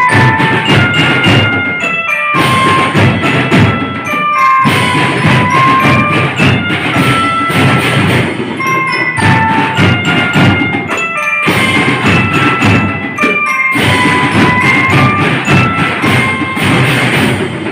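School drum band playing: marching drums beating steadily under a melody rung on bell lyres (glockenspiel), in phrases with short breaks between them.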